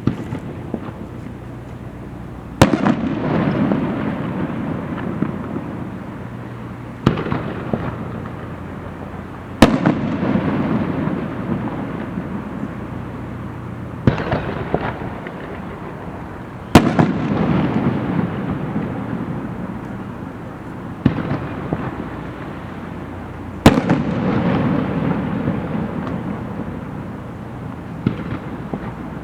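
Aerial fireworks shells bursting overhead, a sharp bang every few seconds, each followed by crackling and a rumbling echo that dies away over several seconds. The strongest bangs come about 3, 10, 17 and 24 seconds in.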